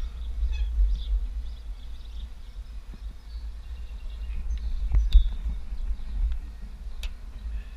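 Wind buffeting the microphone of a bike-mounted action camera while riding, a steady deep rumble, with a few sharp clicks and rattles from the bicycle about five and seven seconds in.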